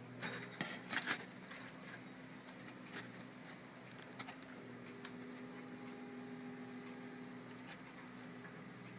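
An engine running steadily at a distance, a low even hum. A few sharp knocks come in the first second or so, and a few lighter clicks about four seconds in.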